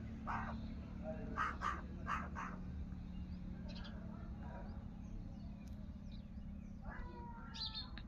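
Harsh bird calls: a run of four or five short caws in the first few seconds, then a longer call with several tones near the end, over a steady low hum.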